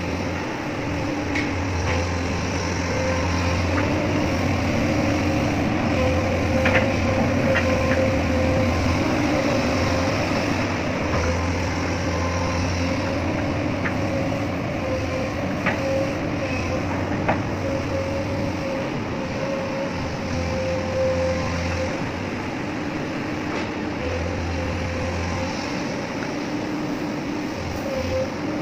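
Excavator running steadily, with a constant whine and a low hum that cuts in and out every few seconds, and a few scattered sharp clicks.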